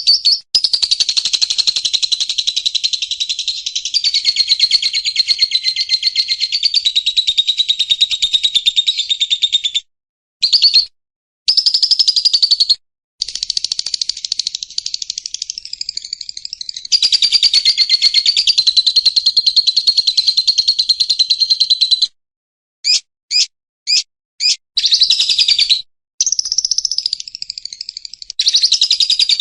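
White-rumped shama (murai hutan) singing in long, rapid trills held around one pitch, broken by short pauses, with a run of short separate notes a little past the middle.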